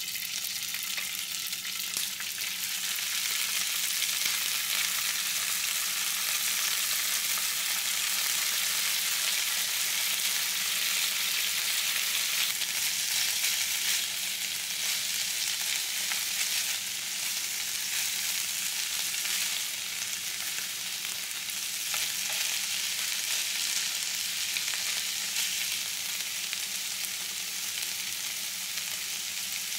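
Food dropped into hot oil in a non-stick frying pan starts sizzling at once, then keeps up a steady sizzle as it is stirred with a wooden spatula.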